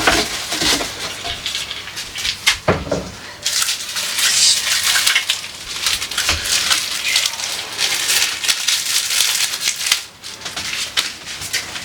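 Crinkling and rustling of plastic food packaging and containers being handled, with many small clicks and a few dull knocks.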